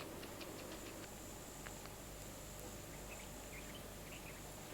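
Faint natural ambience: a low steady hiss with scattered soft clicks and a few faint high chirps a little past the middle.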